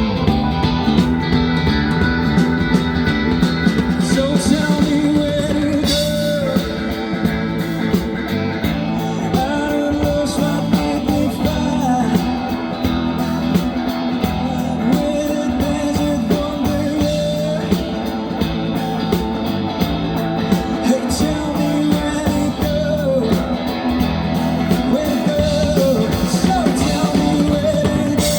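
Live rock band playing, with guitars and a voice singing the melody over a steady beat.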